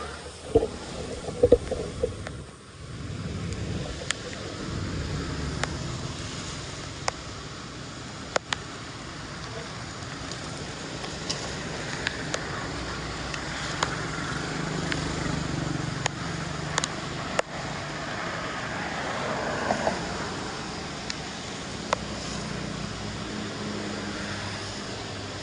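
Floodwater rushing into a storm drain, a steady wash of noise with scattered sharp clicks and knocks.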